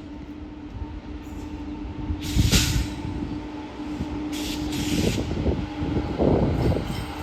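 A fast train running through a station: a low rumble that grows louder, with sharp knocks, the loudest about two and a half seconds in and a cluster of them near the end, over a steady low hum.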